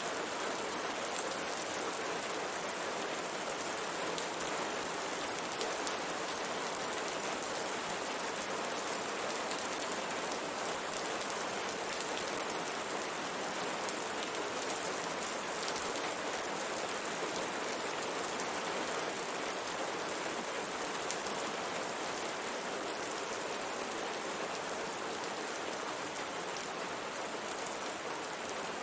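Steady rain falling on a window pane, an even hiss with scattered drops ticking on the glass.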